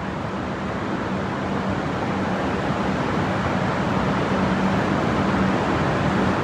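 Steady urban traffic noise with a faint low hum underneath.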